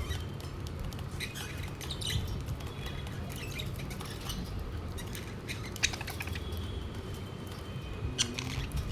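Budgerigars chirping and chattering in short, scattered calls, with a few sharp clicks, the loudest about six seconds in and near the end, over a steady low hum.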